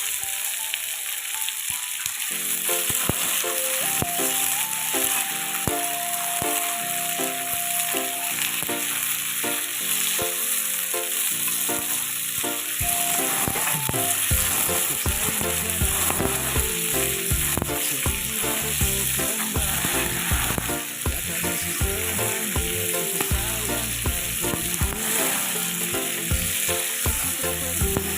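Food frying in hot oil, a steady sizzle throughout.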